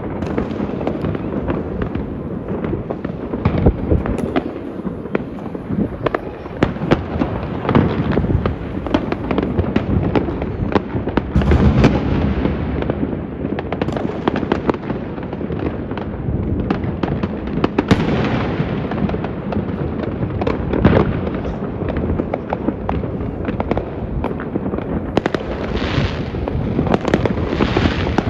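Many fireworks going off at once over a city: a continuous dense crackle of bangs and pops, with louder bursts every few seconds.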